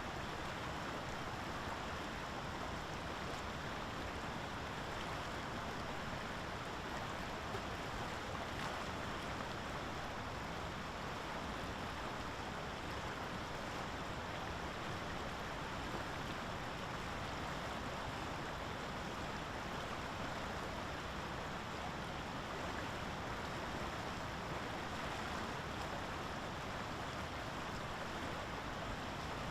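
Steady, even rushing of water with no distinct events.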